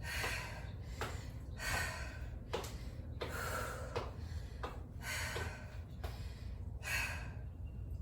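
A woman breathing hard during bodyweight exercise, with a heavy breath about once a second and a few light knocks among them.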